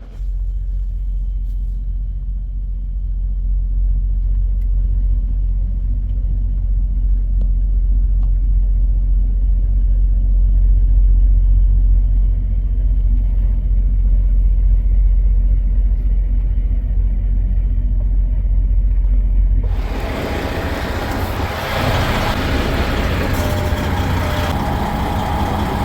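Semi truck's diesel engine idling steadily while warming up, a deep even rumble. About twenty seconds in the sound changes abruptly to a louder, brighter hiss over the engine.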